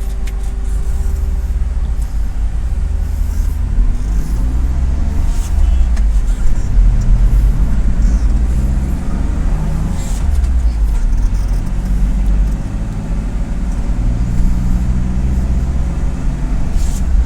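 A mini truck's engine running as the truck drives off and along the road, its pitch rising and falling several times, with steady road rumble.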